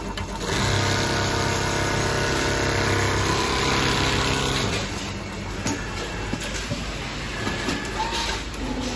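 Automatic pattern sewing machine running: a steady motor hum for the first half, then a noisier stretch of machine clatter with small clicks.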